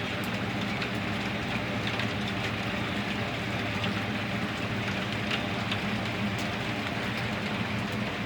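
Steady rain, with scattered drop ticks, over a constant low hum.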